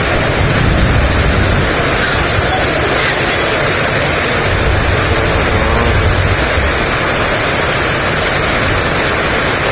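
Heavy rain pouring down in strong wind: a loud, steady rush, with a low rumble of gusts swelling and fading twice.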